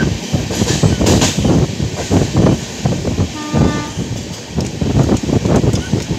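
Passenger train running, heard from an open coach window: steady wheel and rail noise with uneven knocks and rush. A short horn note sounds about three and a half seconds in.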